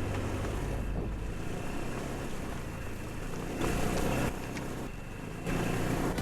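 A motor running steadily with a low hum, with wind noise on the microphone; the sound jumps abruptly in level a few times.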